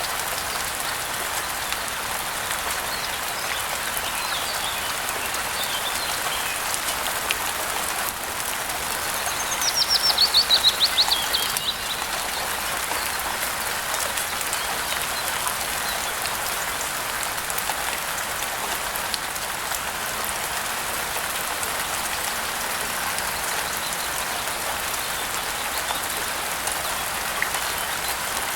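Steady rain falling, with a bird giving a fast descending trill of rapid notes about ten seconds in, the loudest sound here, and a few faint chirps a little before it.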